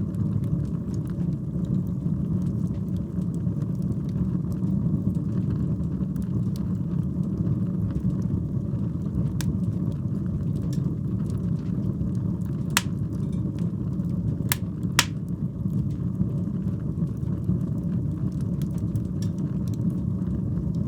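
Wood fire burning in a fireplace: a steady low rumble with scattered crackles throughout and a few sharper pops a little past the middle.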